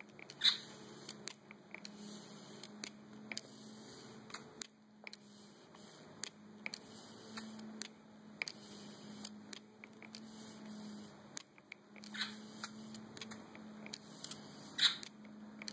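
Steady low mains hum with faint scattered clicks, and a few brief sharp sounds about half a second in and again near the end.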